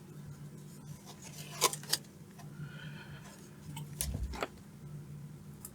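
Light clicks and knocks of a circuit board and small objects being handled on a workbench, in pairs about a second and a half in and again about four seconds in, over a steady low hum.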